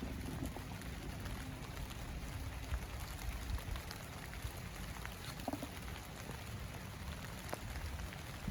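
Heavy rain pattering on sunflower leaves, a steady hiss with many scattered sharp drop ticks close by.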